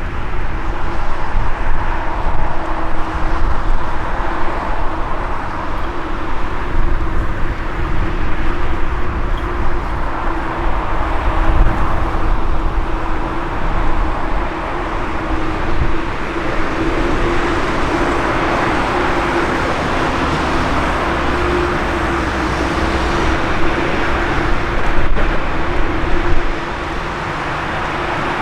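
Jet airliner engines with a steady hum that swells in the second half, under heavy gusting wind buffeting the microphone.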